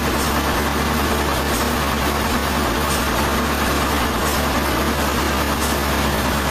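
Sawmill machinery running steadily with a low, even engine drone, and a faint tick repeating about every second and a half.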